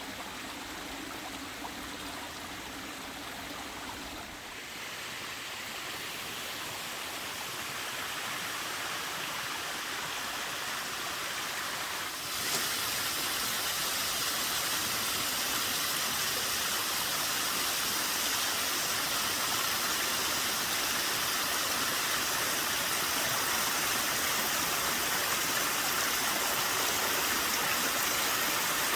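Small waterfall with a fairly light flow, its falling water making a steady splashing rush. About twelve seconds in the sound suddenly becomes louder and brighter, and stays so.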